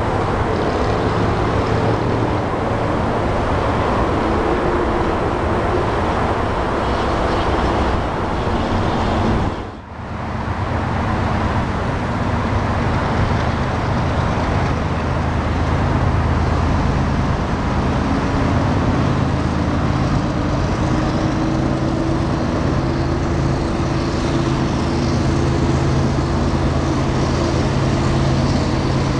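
Freight train rolling past close by, a steady rumble of cars on the rails. After a break about ten seconds in, steady traffic noise with a low, even engine drone.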